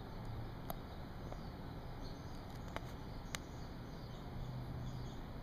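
Quiet outdoor ambience with a steady low hum and a few faint, sharp clicks, one about a second in and two close together around three seconds in.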